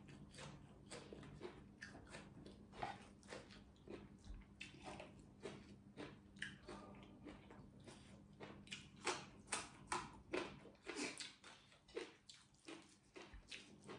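Faint chewing and crunching from a person eating by hand: quick wet clicks and crunches of chewing raw greens and rice, busier in the second half, over a faint steady hum.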